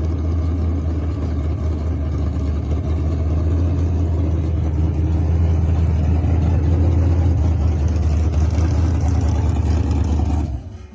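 A 1977 Chevrolet Malibu's V8 engine running steadily with a deep, even hum. It gets a little louder partway through and cuts off shortly before the end.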